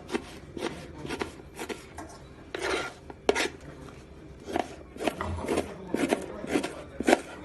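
Kitchen knife chopping on a cutting board, with irregular knocks about two a second and a short scraping stroke a little before three seconds in.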